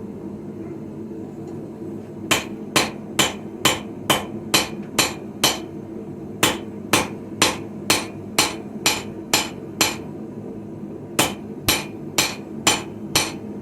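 Blacksmith's hammer forging a sickle blade on a small Viking-style anvil: sharp ringing blows about two a second, in three runs with short pauses between them. A steady low hum runs underneath.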